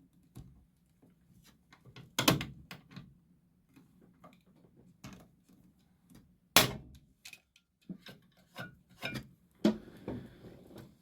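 Hand tools and metal parts being worked on a Humvee engine cover: a string of sharp clicks and knocks, with two louder snaps about two and six and a half seconds in.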